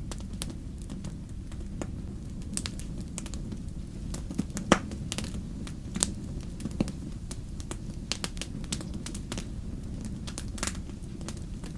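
Wood fire in a fireplace crackling, with irregular sharp pops over a steady low rumble; the strongest pops come about five and six seconds in.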